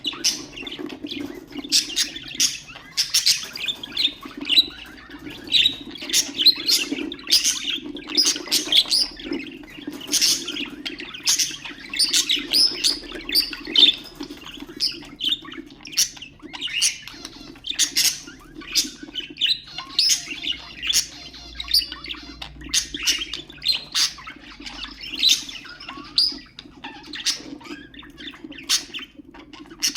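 Budgerigars chirping and chattering in quick, continuous bursts, over a steady low hum.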